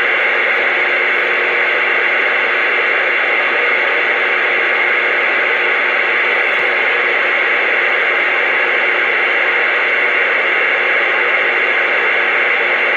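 CB radio receiver putting out a steady hiss of static with no voice coming through: an open channel between transmissions.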